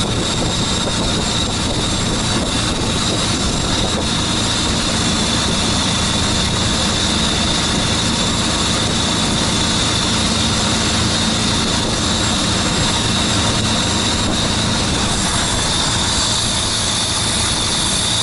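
A boat's engine running steadily at a constant speed while the boat travels along the canal.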